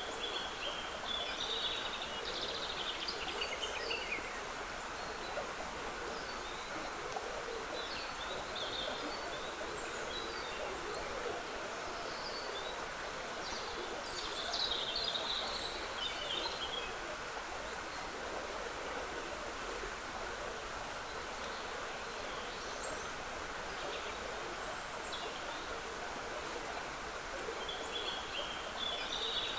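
Steady trickle of a small woodland stream, with songbirds singing short phrases now and then above it; the longest bird phrase comes about halfway through.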